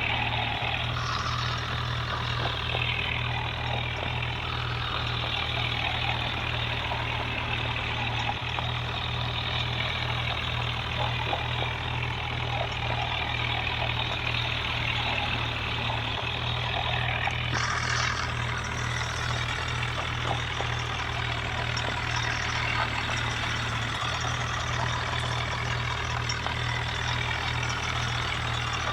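Tractor diesel engine running steadily with an even low throb.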